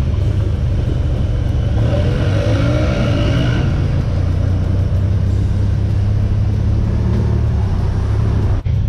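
Honda Pioneer 1000 side-by-side's engine running steadily under way on an off-road trail, a loud low drone with drive noise. A faint wavering higher tone comes in briefly about two to three seconds in.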